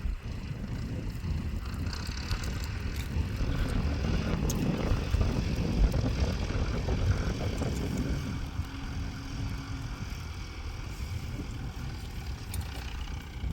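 Tractor engine running steadily, a little louder around the middle.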